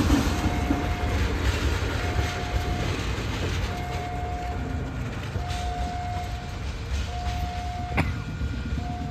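Train rumbling past, with a single steady tone beeping on and off over it, each beep just under a second long and repeating about every second and a half to two seconds. A louder horn chord dies away at the very start, and there is one sharp click near the end.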